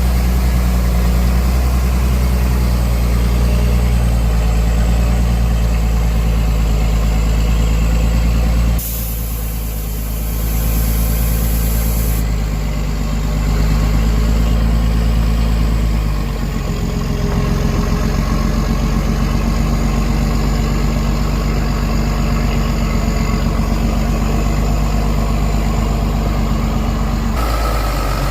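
Heavy truck's diesel engine running steadily. There are sudden shifts in level and tone about nine seconds in and again near sixteen seconds.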